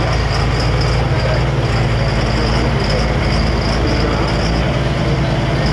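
Big diesel engine running steadily at low speed, a deep, even rumble with a fast firing pulse.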